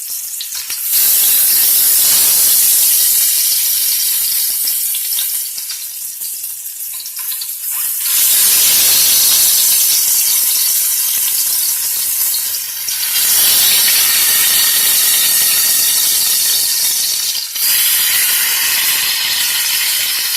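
Hot grease sizzling in a pot as chicken drumsticks are laid in to brown, the sizzle flaring up loudly four times as each new piece goes in and settling a little between.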